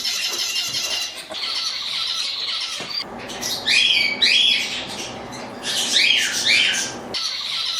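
Many caged songbirds chirping and calling at once in a dense, high-pitched chatter. Loud, repeated downward-sliding calls break through twice, about four seconds in and again about six seconds in.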